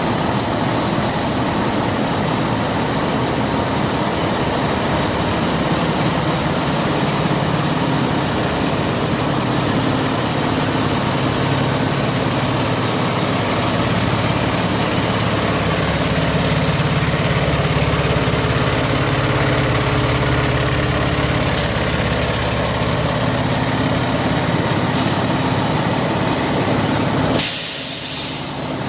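A fire truck's engine running with traffic noise, with a few short hisses of air a little past the middle and a loud burst of air-brake hiss near the end.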